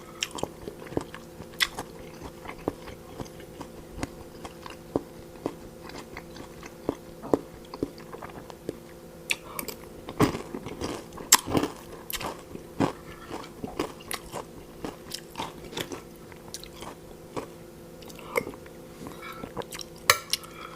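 A person chewing and biting food close to the microphone, with irregular crisp crunches and wet mouth clicks, a dense run of them about halfway through and another near the end, over a faint steady hum.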